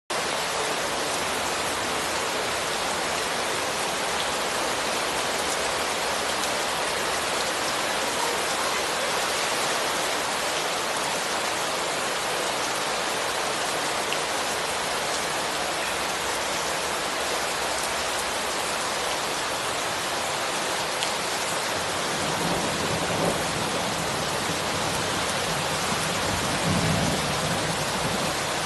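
Heavy rain falling steadily, with a low rumble coming in near the end.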